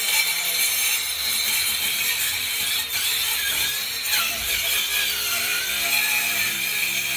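A power tool running steadily with a high whine, during the tearing up of a floor.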